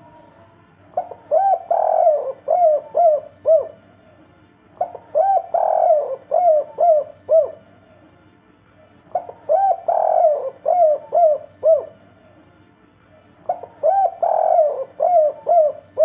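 Spotted dove cooing its 'kuk 3' song: four repeated phrases about four seconds apart, each a longer, louder coo followed by three short closing notes.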